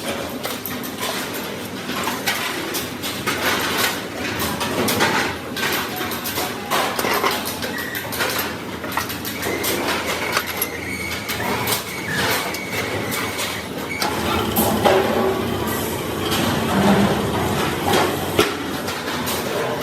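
Metal-fabrication shop noise: a steady din of machinery with irregular knocks and clanks of sheet steel being worked.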